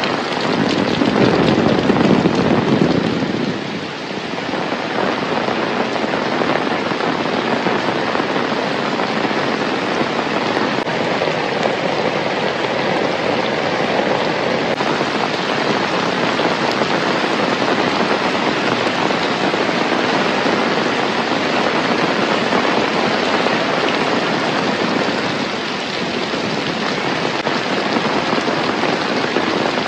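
Heavy rain falling steadily in a dense, even hiss. There is a louder, deeper swell during the first few seconds.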